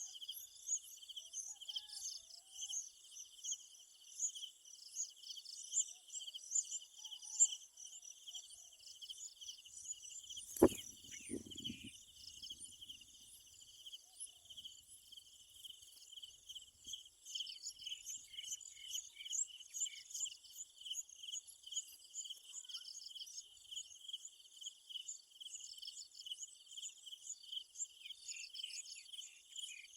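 Steady outdoor insect chorus, a cricket-like pulsing trill with dense high chirping above it. A single sharp knock comes about ten seconds in.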